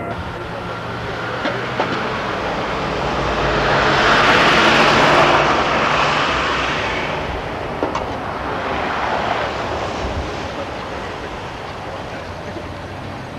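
A vehicle passing by: a steady rushing noise that swells to its loudest about four to five seconds in, then slowly fades away.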